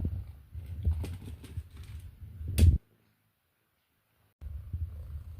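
A cat with cerebellar hypoplasia eating from a bowl: irregular knocks and clicks as his jerky, poorly controlled head movements bang at the bowl, over a low rumble. One sharp knock is the loudest, then the sound drops out completely for about a second and a half before the knocking resumes.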